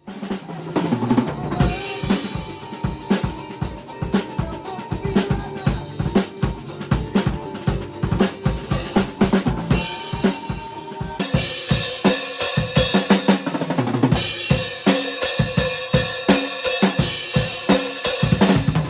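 Drum kit played solo: a fast groove of kick, snare and rimshots, with cymbals and hi-hat coming in louder in the second half.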